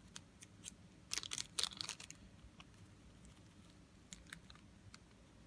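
Small plastic bag of screws crinkling and rustling as it is handled, with light clicks; a cluster of crinkles about a second in, then a few faint scattered ticks.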